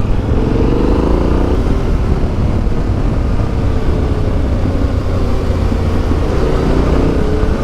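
Motorcycle engine pulling away and running under load, its pitch rising over the first second or so and again near the end as it accelerates, over a heavy low rumble.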